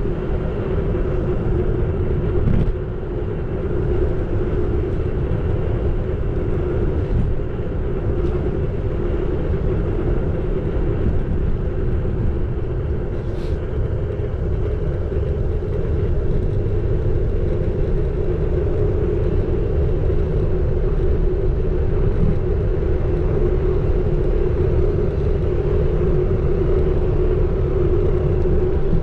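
Xiaomi Electric Scooter 4 Pro riding along: a steady electric-motor whine over a low rumble of road and wind noise, with a couple of faint clicks.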